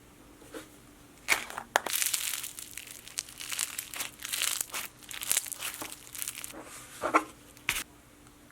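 Slime being worked by hand, giving off a quick, irregular run of crackles and crinkles. It starts a little over a second in and stops shortly before the end.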